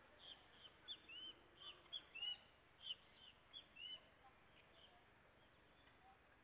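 Small birds chirping: a quick run of short, high chirps, some falling and some arched, that thins out after about four seconds, over a faint outdoor hush.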